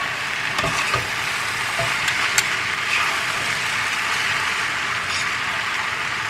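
Noodles and vegetables sizzling steadily in a white-coated wok over a high gas flame while they are tossed with a metal spoon and fork, with a few light clicks of the utensils.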